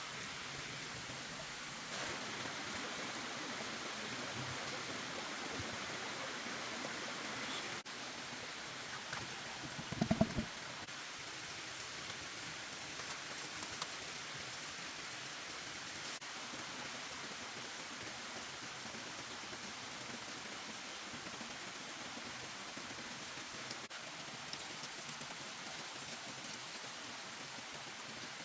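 Steady rain falling, with a brief cluster of thumps about a third of the way through.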